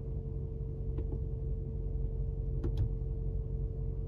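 Steady low hum inside the Mercedes-AMG G63's cabin with the engine running, with a few soft clicks from the infotainment controller about a second in and twice near three seconds as the menus are scrolled.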